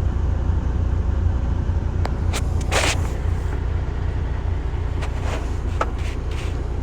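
Semi-truck engine idling: a steady low rumble, with a few light clicks and a brief hiss about three seconds in.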